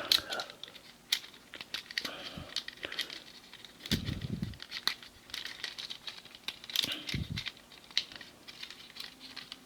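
Plastic parts of a Transformers action figure being handled and moved: scattered light clicks and rubbing, with a couple of dull thumps about four and seven seconds in.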